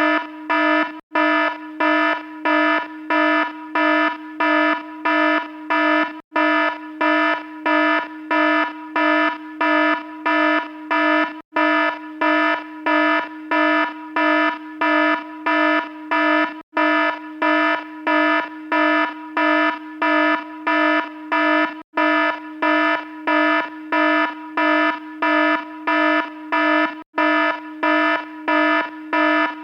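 Electronic alarm sounding continuously: a harsh buzzy tone pulsing about two to three times a second, with a brief break about every five seconds.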